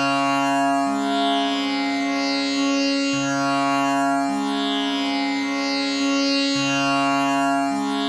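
Tanpura drone tuned to C sharp: its strings are plucked in a repeating cycle, each round starting about every three and a half seconds, and they ring on in a continuous, overtone-rich hum.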